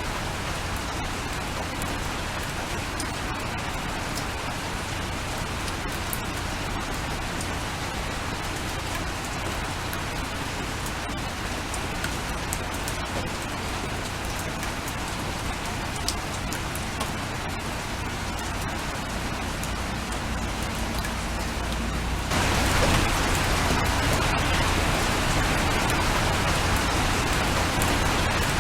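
Steady rain falling, with individual raindrops ticking sharply through it. About 22 seconds in, the rain suddenly gets louder.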